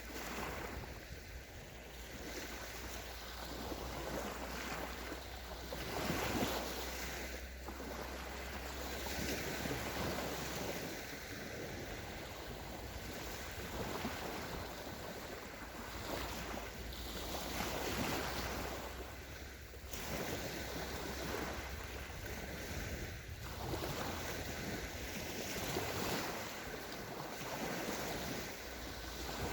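Sea waves washing onto a sandy beach, a continuous surf whose wash swells and falls every couple of seconds.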